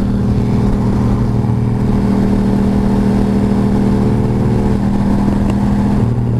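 Motorcycle engine running at a steady cruising pitch under way, heard from the rider's position. The engine note shifts slightly just before the end, as with a throttle or gear change.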